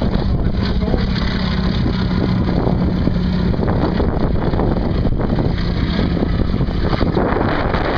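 A steady engine drone under heavy wind noise on the microphone; the engine's note weakens about three and a half seconds in.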